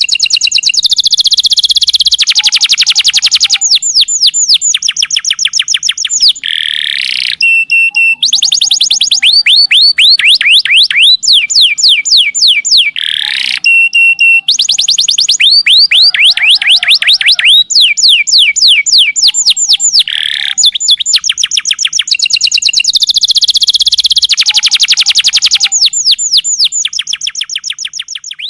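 Domestic canary singing loudly and without pause: long, rapid trills of high, sweeping notes, one rolling phrase running straight into the next. The same sequence of trills comes round again about every six and a half seconds.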